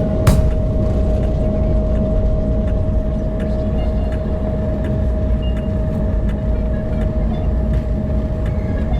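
Steady cabin rumble inside an Airbus A330-300 airliner, with a constant hum running over it and one sharp click just after the start.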